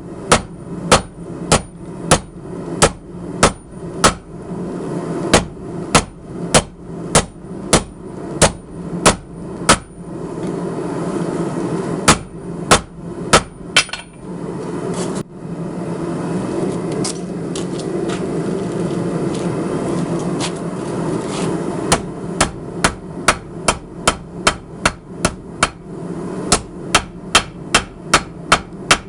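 Hand hammer striking a hot 52100-steel ball bearing on an anvil during hand forging, with sharp ringing blows about two a second. In the middle the blows stop for several seconds, with only a few strikes, and a steady low rushing noise underneath comes to the fore before the rapid hammering resumes near the end.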